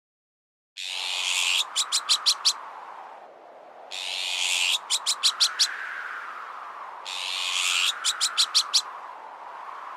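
Azure-winged magpie alarm calls repeated three times, each a harsh rasp followed by a quick run of sharp notes, over strong wind that slowly swells and fades. It starts after a brief silence.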